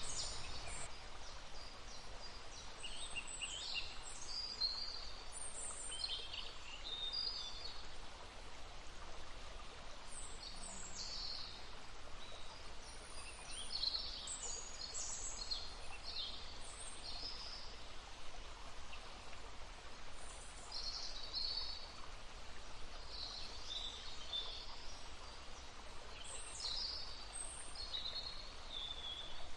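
Songbirds singing in short, high-pitched phrases over the steady babble of a stream.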